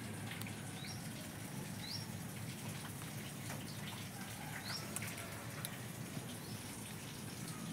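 Quiet outdoor background with a steady low hum and a few short, rising bird chirps, about three of them.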